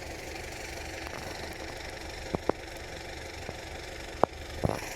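A steady low engine-like hum, as of a vehicle engine idling, with a few sharp clicks or knocks over it, two close together about halfway through and two more near the end.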